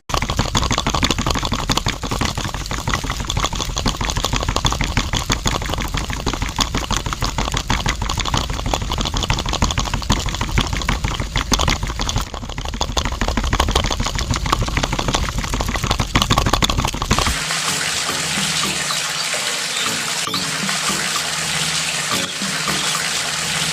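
Water pouring and splashing steadily. About two-thirds of the way through, the sound changes to a lighter, hissing spray with less low rumble.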